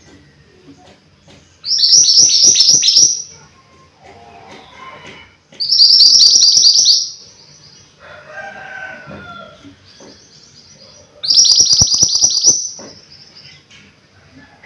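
Mantenan gunung songbird singing loudly in three separate bursts. Each is a quick run of high, downward-sweeping notes lasting about a second and a half, with pauses of a few seconds between.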